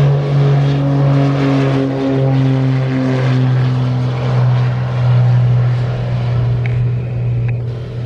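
Propeller aircraft running at high power, a steady engine drone whose higher tones slide lower in pitch over the first few seconds as it passes.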